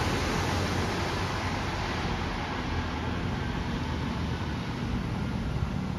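Scania K230UB bus on the move: steady road and engine noise, easing off slightly over the few seconds.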